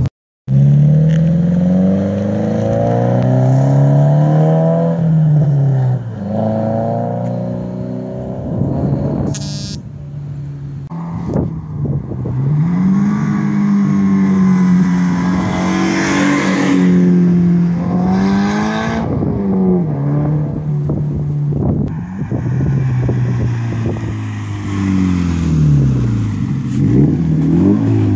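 Subaru BRZ flat-four boxer engine running through a straight-pipe axle-back exhaust (a muffler delete), its revs climbing and falling back several times as the car is driven. The engine cuts out briefly just after the start.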